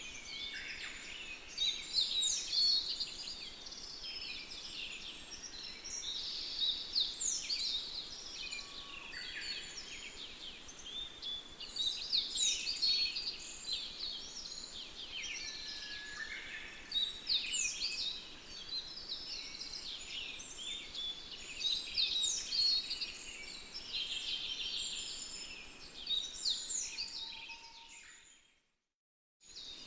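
Several small songbirds chirping and singing, with a louder song phrase about every five seconds over a faint background hiss. Near the end the birdsong fades out to a moment of silence, then starts again.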